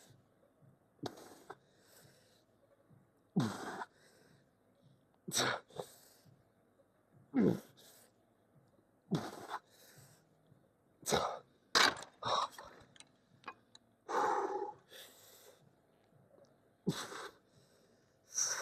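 A man breathing hard with sharp, forceful exhales and short grunts, about one every two seconds, as he strains through repetitions of a shoulder exercise.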